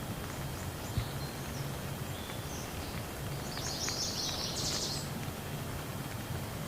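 Steady rain falling as an even hiss with scattered drop ticks, and a bird calling with a quick run of high chirps about four seconds in.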